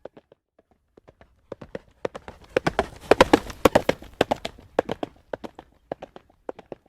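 Horse's hooves trotting on a hard road surface, a quick clip-clop of sharp knocks. It grows louder to a peak about three seconds in, then fades again, as if the horse passes close by.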